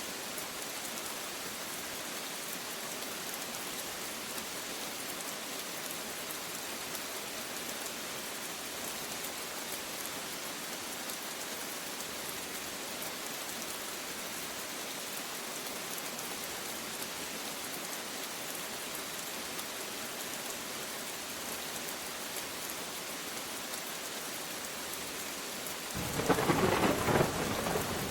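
Steady rain falling with an even hiss. About two seconds before the end, a loud clap of thunder breaks in suddenly and rolls on into a low rumble.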